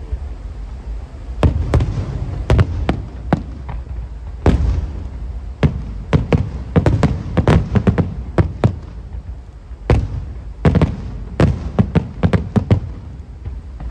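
Aerial firework shells bursting in rapid, irregular volleys of sharp bangs over a steady low rumble. There are short lulls about four seconds in and again about nine seconds in.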